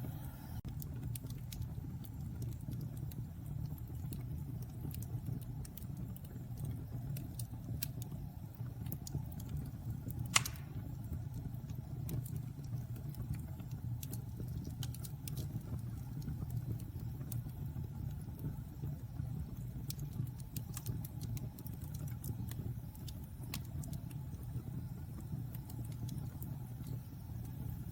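Fire burning in a fireplace: a steady low rush of flame with scattered crackles, and one loud pop about ten seconds in.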